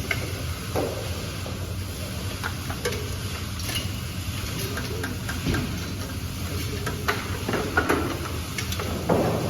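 Scattered clinks and knocks of hand tools on metal engine parts during an engine teardown, over a steady low hum of a busy hall.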